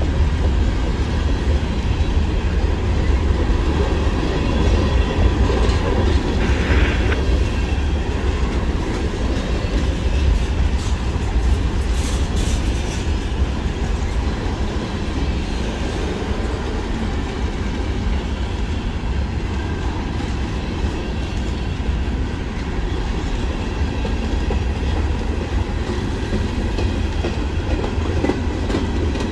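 Freight train cars rolling steadily past, a continuous rumble of wheels on rail.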